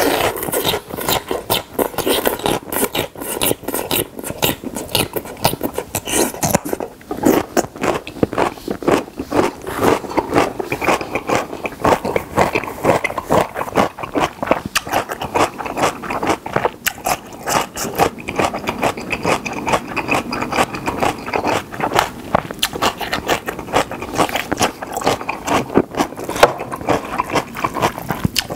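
Close-miked eating sounds: crunching long strips of danmuji (yellow pickled radish) and chewing Jjapaghetti black-bean noodles, a dense run of wet, crunchy clicks with a short lull about seven seconds in.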